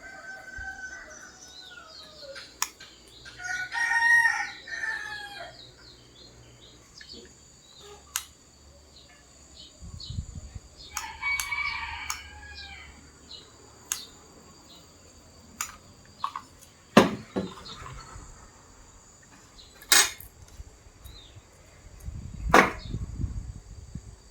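A rooster crowing a few times, each crow a second or so long. Sharp clicks and knocks come every few seconds.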